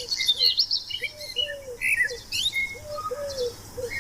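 Birds calling in the background: one bird repeats a low call in short phrases of two or three arching notes, while others give short high chirps.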